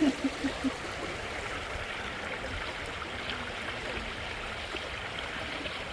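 Steady rush of flowing water from a waterfall-fed river.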